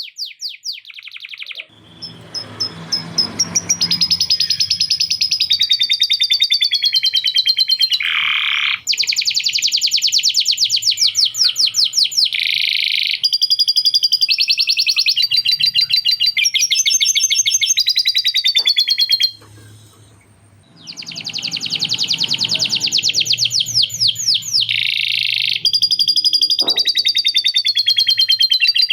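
Male domestic canary singing a long, continuous song of fast trills and rolls, including the rapid chattering trill of a lovebird that it has learned. The song stops briefly about two-thirds of the way through, then carries on.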